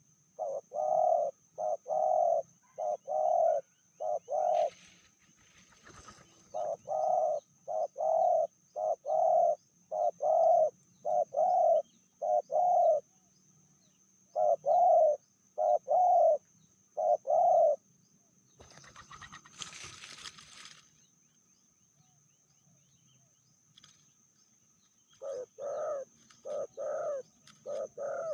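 Spotted dove cooing in runs of short, evenly spaced coos, several phrases with pauses between them. About two-thirds of the way through comes a brief rustling noise, and a faint steady high-pitched whine runs underneath.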